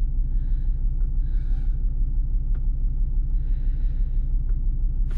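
Diesel car engine idling steadily, a low even rumble with a regular pulse.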